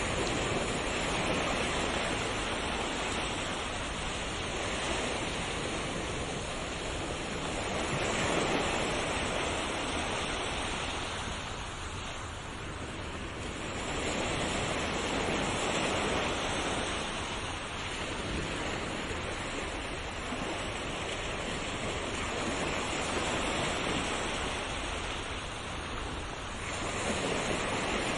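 Sea waves breaking on a shore in a continuous wash of surf, swelling and easing every few seconds.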